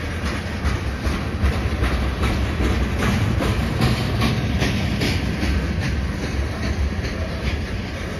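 Freight train tank cars rolling past, their steel wheels rumbling on the rails and clicking over rail joints, with a run of clicks in the middle.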